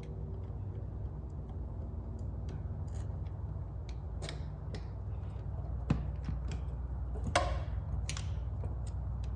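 Small metallic clicks and taps as the two halves of an aircraft vacuum pump's split drive shaft are worked apart by hand, with a sharp clink about six seconds in and a louder ringing clink about a second and a half later. A steady low hum runs underneath.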